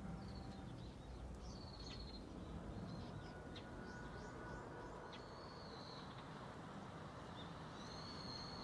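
Small birds calling: several short chirps and a few held, warbling whistled notes, faint, over a steady low background rumble.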